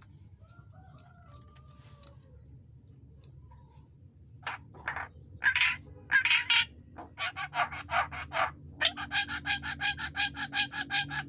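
Javan myna singing: a few faint gliding whistles, then from about four seconds in loud, harsh chattering calls that speed up near the end into a fast run of about five notes a second.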